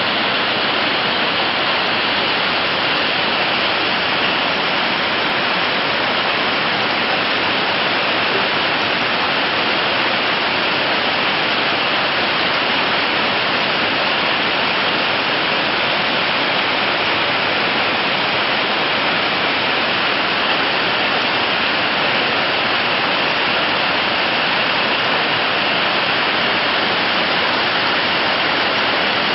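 Steady, unbroken hiss of noise, even in level throughout, with no pitch and no separate events.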